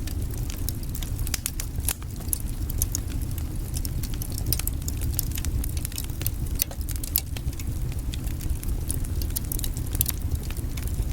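Burning firewood crackling, with frequent irregular sharp pops and snaps over a steady low rumble of flames.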